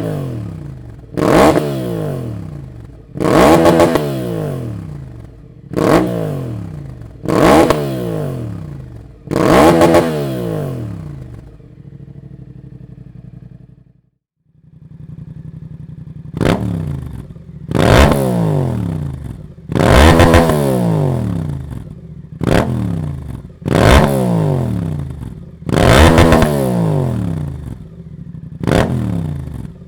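Suzuki GSX-8S 776 cc parallel-twin engine blipped repeatedly from idle, about a dozen sharp revs. The pitch falls back after each one, with a short stretch of idle and a brief break near the middle.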